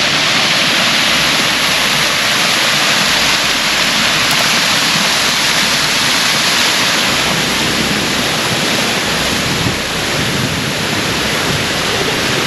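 Steady, loud rush of a waterfall: water pouring over the rock ledges at the top of DeSoto Falls.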